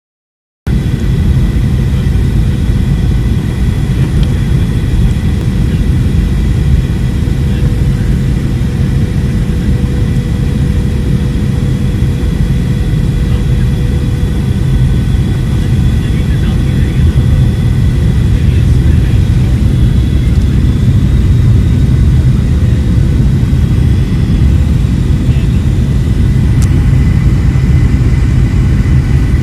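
Airliner cabin noise during the landing approach: a steady deep rumble of engines and airflow with faint steady whining tones above it, growing slightly louder toward the end.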